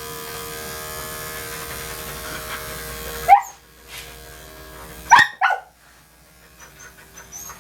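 Electric dog-grooming clippers humming steadily, cutting out a little past three seconds in. A Portuguese Water Dog barks sharply once as they stop, then twice more in quick succession about five seconds in, with another bark right at the end.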